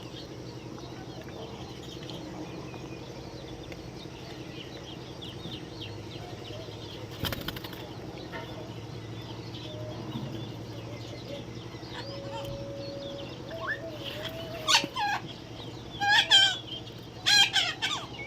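Parrots chirping softly, then, from about 14 s in, several loud harsh squawks, over a steady low hum.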